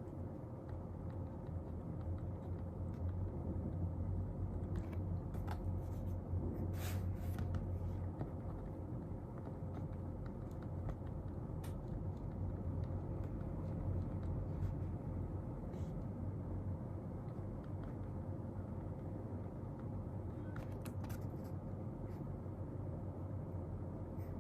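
Steady low room hum with a faint constant tone, and a few light clicks and rustles of desk work: a small cluster about five to eight seconds in, one near twelve seconds and a few more around twenty-one seconds.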